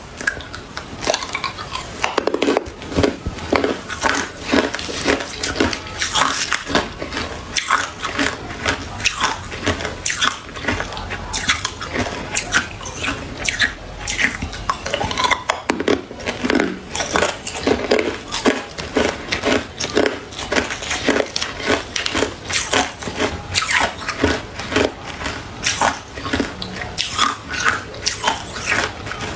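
Ice being bitten and chewed close to the microphone: a steady run of sharp, crackling crunches, about two or three a second.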